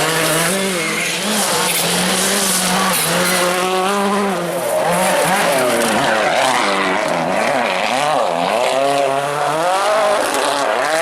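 A World Rally Car's turbocharged four-cylinder engine at full effort, its note climbing and dropping again and again through gear changes.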